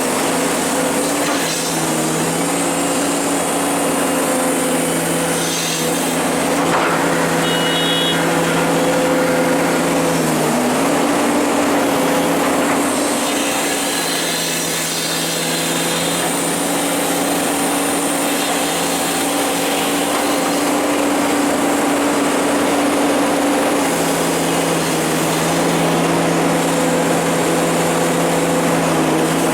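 Hydraulic excavator's diesel engine running steadily at work, dipping briefly in pitch about ten seconds in as the load changes.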